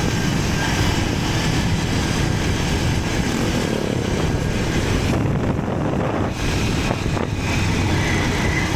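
Motorcycle engine running while riding, mixed with heavy wind noise on the microphone.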